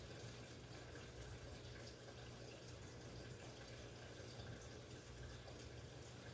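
Near silence: a faint steady hiss of room tone with a low, even hum.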